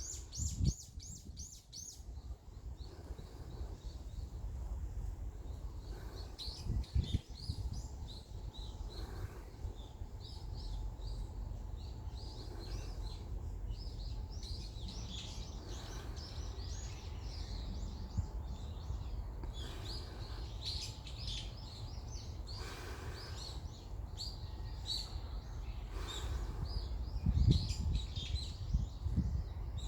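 Small birds chirping and calling over and over, with wind rumbling on the microphone. There are a few stronger gusts or bumps, one about a quarter of the way in and several near the end.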